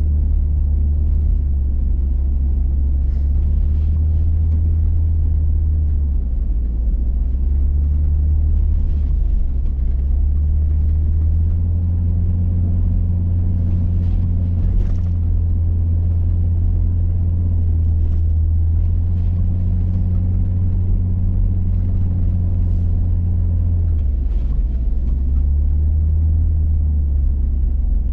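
Hummer H3 being driven, a steady deep engine and road drone. The engine note dips briefly three times and comes back up.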